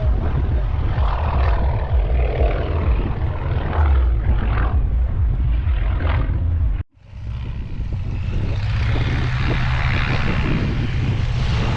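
Propeller aircraft engine running, with a heavy low rumble underneath. The sound drops out abruptly for a moment about seven seconds in, then comes back.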